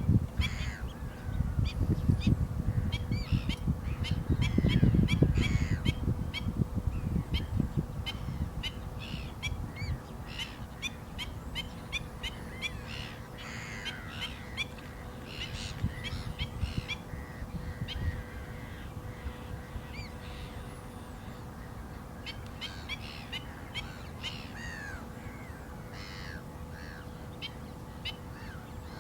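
Black-winged stilts calling: many short, sharp, repeated calls, several birds at once, over a low rumble that is loudest in the first several seconds.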